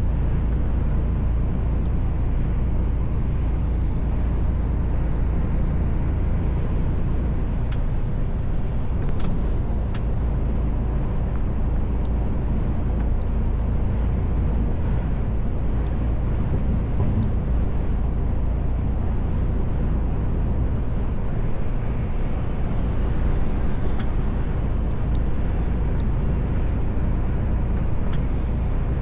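Mercedes Actros L truck driving, heard from inside the cab: a steady low drone of engine and road noise, with a brief hiss about nine seconds in.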